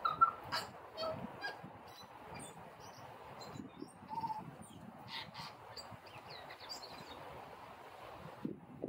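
Birds calling outdoors: short chirps and calls scattered throughout, the loudest in the first second or so, over a steady background hiss.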